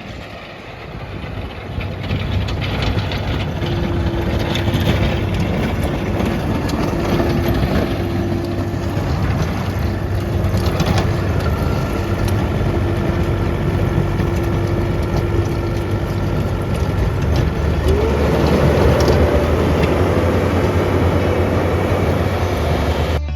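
New Holland skid steer with a snowplow, its engine running steadily under load while clearing snow. There is a steady hum, with a higher pitched tone held for long stretches, and the engine swells briefly near the end.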